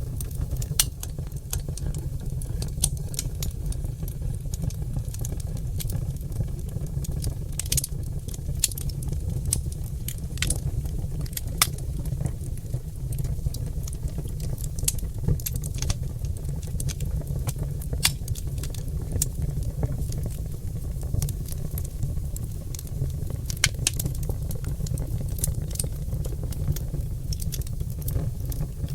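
Oak logs burning in a fireplace, crackling and popping irregularly over a steady low rumble.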